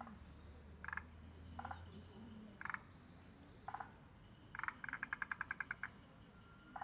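Frogs calling: short bursts of quick clicking pulses every second or so, then a faster run of about a dozen pulses near the end.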